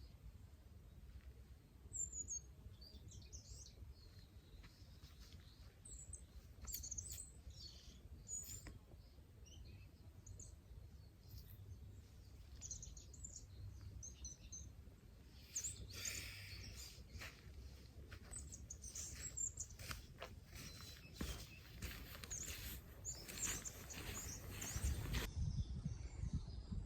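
Wild birds chirping, with short high calls scattered through, over a low rumble of wind on the microphone. In the last seconds, short scuffing noises come thicker and louder.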